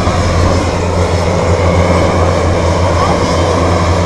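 Military aircraft engines running steadily at a constant pitch, a loud, even drone with a low hum.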